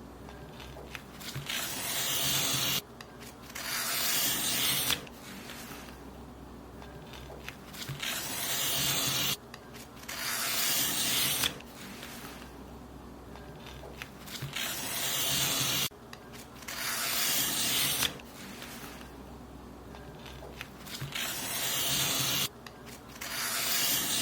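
Paper being cut in long hissing strokes, each swelling for a second or two and then stopping abruptly. The strokes come in pairs, four pairs in all.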